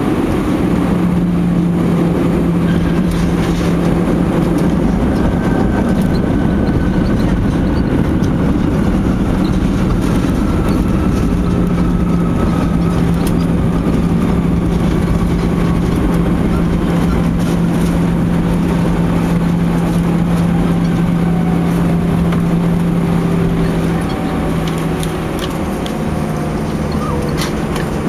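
Airbus A319 cabin noise on the landing roll, heard from a window seat: loud, steady engine and airflow rush with a low hum and a faint whine that slowly falls in pitch, as the engines spool down. It gets a little quieter near the end.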